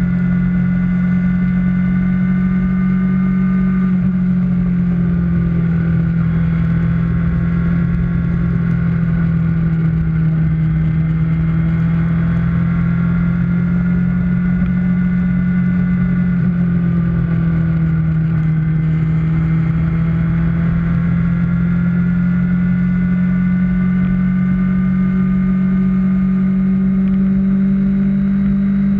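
Kawasaki Ninja ZX-6R's inline-four engine running at steady cruising revs, its pitch sagging slightly and climbing back twice.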